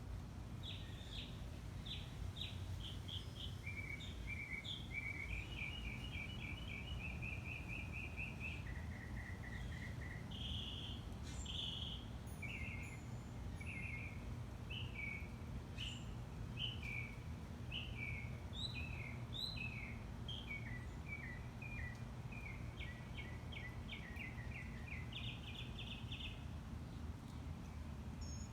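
Backyard birds chirping: quick series of short repeated notes and a few fast trills, over a steady low background rumble.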